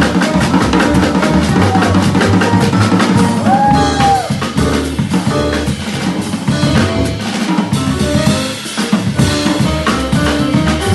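Small jazz group playing live: a drum kit played busily with many snare and rimshot hits, kick drum and cymbals, over piano and bass.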